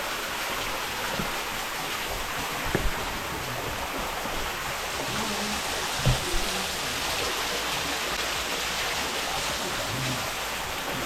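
Steady rushing of a creek or waterfall, with a couple of short knocks about three and six seconds in.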